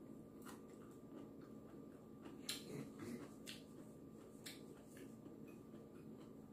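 Quiet chewing of sushi and sashimi, with a scatter of soft mouth clicks and smacks, over a low steady hum.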